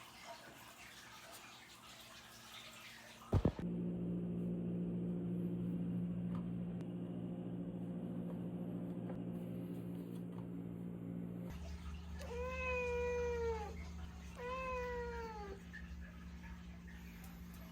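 Domestic cat meowing twice, each call about a second long and dropping in pitch at the end. Under it a steady electric hum runs; it starts with a sharp click a few seconds in, and the click is the loudest sound.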